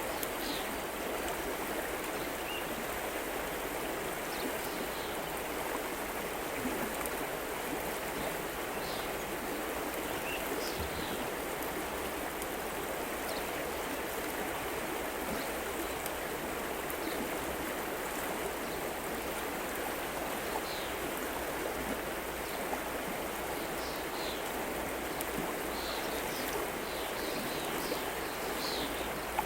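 River water flowing as a steady, even rushing, with short high chirps scattered through it, more of them near the end.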